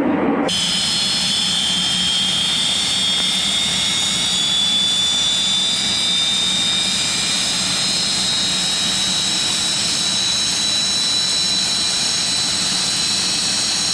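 Jet aircraft engine whine, a high-pitched stack of tones over a steady rush of engine noise, starting abruptly about half a second in and rising slowly in pitch.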